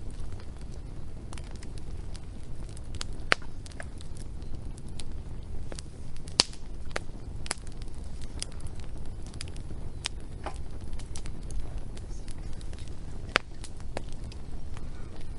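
Wood fire crackling, with irregular sharp pops and snaps of burning logs over a steady low rumble of the flames.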